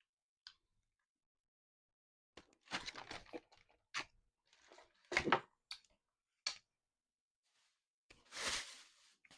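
Close-up eating sounds: a chicken Philly sandwich being bitten into and chewed, with irregular short crackling and tearing noises and a longer rush of noise near the end.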